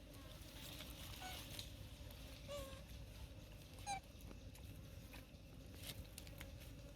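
Monkeys giving a few short, squeaky calls a couple of seconds apart, the loudest about four seconds in, over faint scattered taps and rustling.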